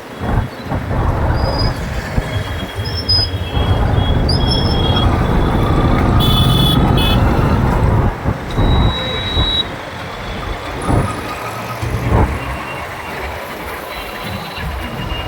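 City traffic heard from a moving motorbike: heavy wind and road rumble, with vehicle horns honking now and then. A louder horn blast comes about six seconds in.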